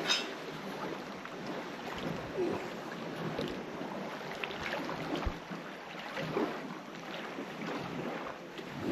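Wind noise on the microphone over a background of water, with a few faint scattered clicks.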